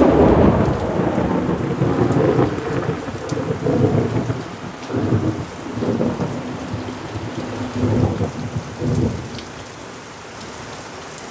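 Heavy rain with a sudden loud clap of thunder that rolls on in several swells for about nine seconds, then dies away, leaving the steady rain.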